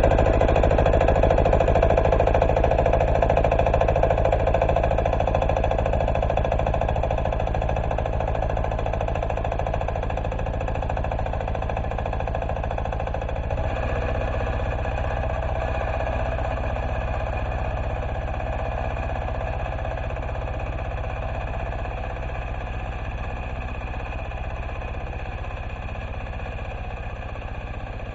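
Diesel engine of a Neva MB-2 walk-behind tractor running steadily while pulling a plough, growing gradually fainter.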